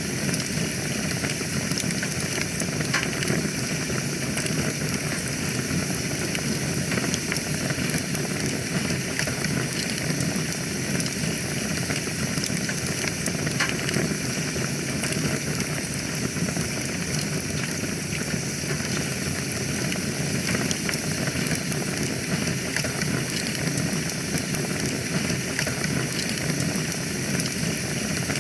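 Wood fire burning in a fireplace: a steady hiss with frequent small, irregular crackles and pops.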